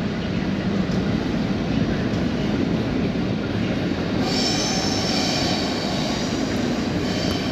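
Passenger train hauled by a PKP EP09 electric locomotive rolling into a station platform. About four seconds in, a high metallic squeal of several steady tones joins the steady rolling noise as the train brakes to stop.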